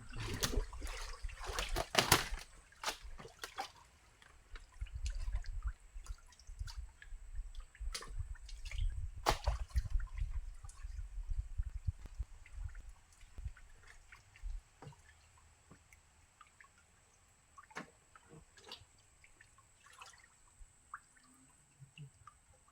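Shallow muddy water splashing and dripping as it is worked by hand: a busy run of splashes in the first half, loudest about two seconds in, then scattered drips.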